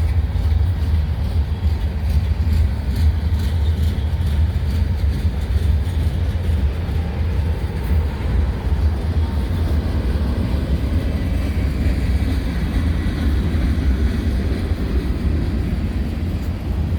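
Freight train cars rolling past on the track with a steady low rumble.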